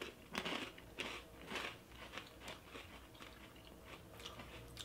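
Crisp Yan Yan biscuit sticks being bitten and chewed. The crunches come thickest in the first two seconds, then settle into quieter, scattered chewing.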